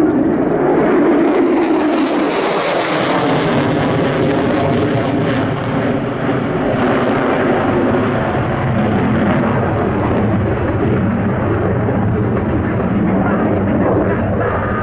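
Jet noise from an F-35A Lightning II's single Pratt & Whitney F135 turbofan during a climb, loud and steady throughout. It crackles for the first few seconds, then settles into a lower drone.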